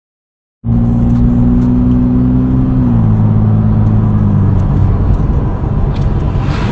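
Car driving, heard from inside the car: steady engine hum and road noise that begin abruptly just under a second in, the engine's pitch dropping in two steps a little over a second apart.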